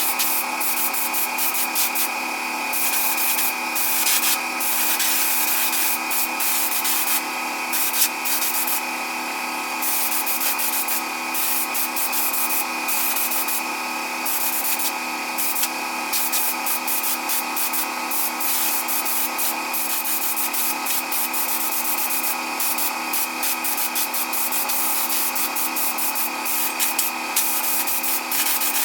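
Electric power tool running at a steady speed while it sands or abrades a part, a constant motor whine under a rough, uneven scraping hiss.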